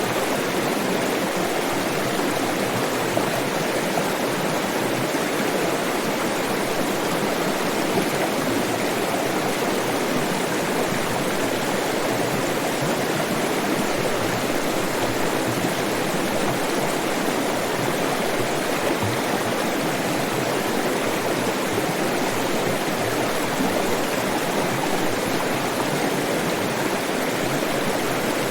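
Flowing stream water rushing steadily with an even, unchanging wash of sound.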